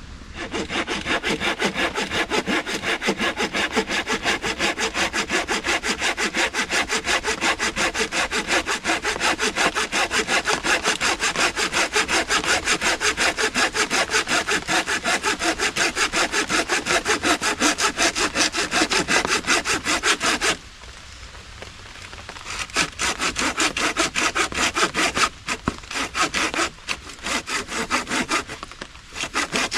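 A hand saw cutting through a wrist-thick branch with steady, rapid back-and-forth strokes. The sawing stops for about two seconds about two-thirds of the way through, then resumes in shorter runs with brief breaks.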